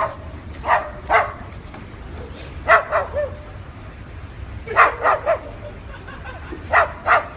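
White cockatoo mimicking a dog's bark: short bark-like calls in pairs and threes, about nine in all.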